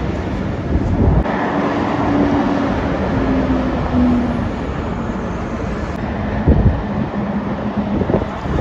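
A heavy truck passes on a dual carriageway amid steady traffic noise. Its engine note steps slightly lower as it goes by, and there are low thumps of wind on the microphone about a second in and again about two-thirds of the way through.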